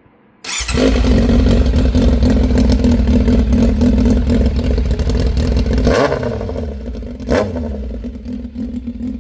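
Yamaha Fazer 600's inline-four motorcycle engine starting about half a second in and running loud with no silencer fitted, on the bare exhaust. Two short throttle blips, the second about a second and a half after the first, then back to a steady idle.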